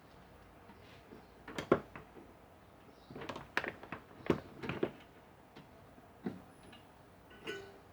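Irregular clicks and knocks of small parts and tools being handled during a microwave magnetron repair, about ten separate taps with a brief metallic ring near the end.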